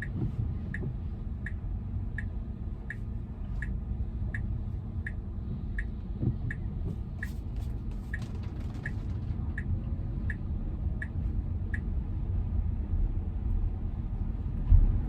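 Tesla's turn-signal indicator ticking steadily inside the cabin, about one and a half ticks a second, over low road and cabin rumble; the ticking pauses for a few seconds near the end and then resumes.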